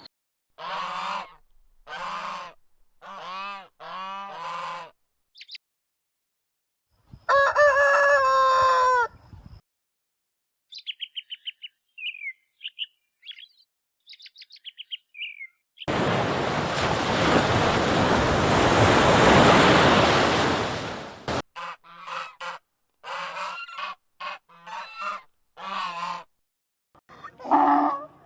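A run of separate animal calls. First about five short repeated honk-like calls, then one long call that falls in pitch at the end, then thin high bird chirps. A loud hissing noise follows for about five seconds, and more short repeated calls close it.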